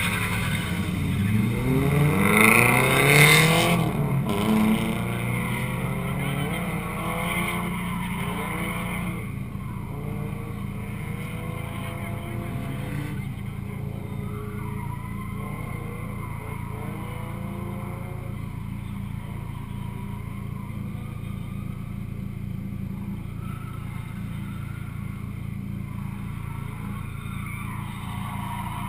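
A car engine idling steadily close by, while another drift car accelerates away hard, its revs climbing through several gears and loudest about three seconds in. After that, more distant engines rev up and drop back again and again over the idle.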